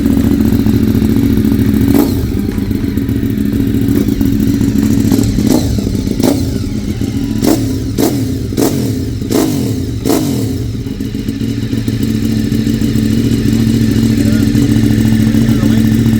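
Ducati 848 Evo's L-twin engine idling through a newly fitted race exhaust, a steady low note, with a run of about seven short sharp cracks in the middle of the stretch.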